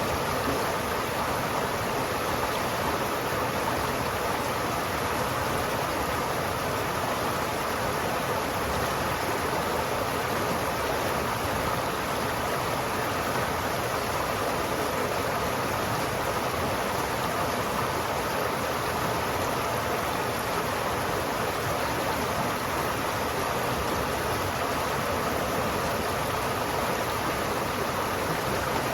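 A river flowing steadily, a continuous rushing of water with no breaks or changes.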